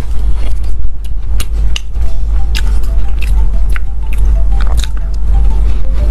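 Close-miked biting and chewing of crisp piped butter cookies, with a dozen or so sharp crunches.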